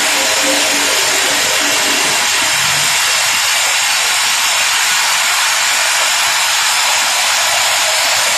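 Simba S7D long-hole drill rig drilling: a loud, steady, hissing machine noise from the rock drill working 64 mm holes on T-38 rods.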